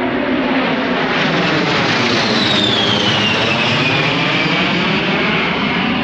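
Jet aircraft flying low overhead: a loud engine roar that swells to a peak mid-way, with a high whine that drops in pitch as it passes.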